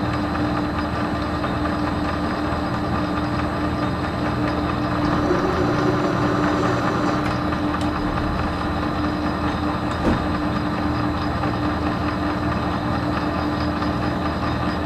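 Metal lathe running steadily under power with an even gear-train hum, during a thread-cutting pass in stainless steel at one thousandth of infeed. A single sharp knock about ten seconds in.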